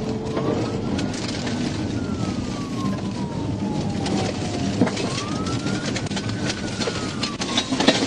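Police car siren on wail, rising and falling slowly twice, over the patrol car's engine and tyre noise at speed on a gravel road. Loose gravel clicks and knocks against the car, coming thicker near the end.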